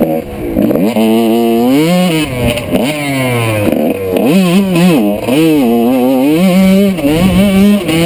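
1995 Honda CR125 two-stroke dirt bike engine being ridden hard, revving up and down again and again, its pitch climbing and dropping every second or so as the throttle is opened and shut.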